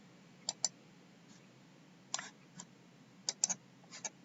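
Scattered sharp clicks from a computer, about nine in all, some single and some in quick pairs, over a faint steady hum.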